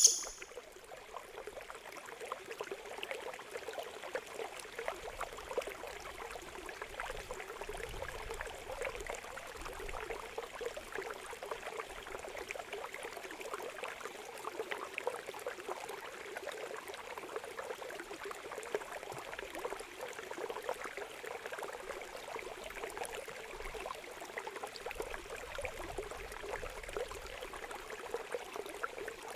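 Water trickling and babbling steadily, like a small stream or fountain, as a calming water sound.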